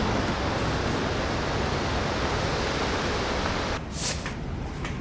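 Steady rushing noise of surf washing onto a sandy beach, which drops off abruptly a little before the end. A brief sharp hiss follows about four seconds in.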